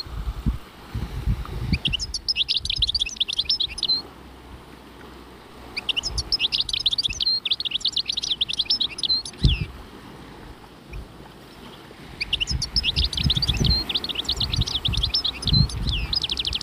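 A small songbird singing three bursts of rapid high chirping notes, each lasting two to four seconds, with pauses between. Low thumps and rumbling sound under the song.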